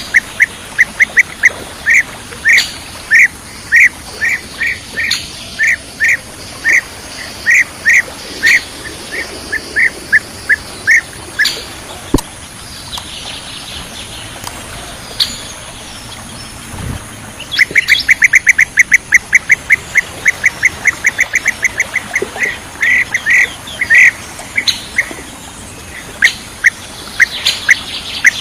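Bee-eater calls: short, sharp notes repeated in quick series. The notes stop for a few seconds near the middle, then come back as a faster, denser run.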